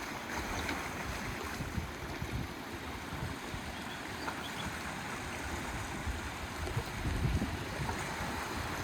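Wind buffeting the microphone over a steady wash of seawater, with gusts that grow stronger near the end.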